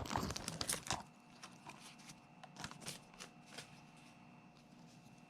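Foil booster pack and trading cards being handled: a second of crinkly rustling and clicks, then faint scattered taps and slides of cards.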